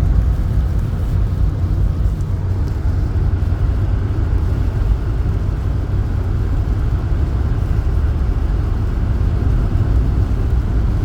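Steady low rumble of a car driving on a snow-covered highway, heard from inside the cabin: tyre and engine noise with no let-up.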